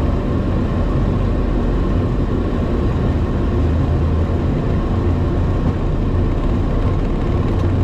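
Airliner's engines and airflow running at takeoff power as a steady, loud noise with a low hum underneath, unchanging through the takeoff.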